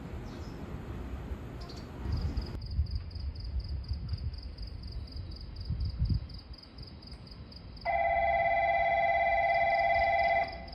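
Station platform electronic bell ringing steadily for about two and a half seconds near the end, a loud pitched ring that stops abruptly. Before it, a low train rumble dies away about two seconds in, leaving a faint rapid high-pitched pulsing tone.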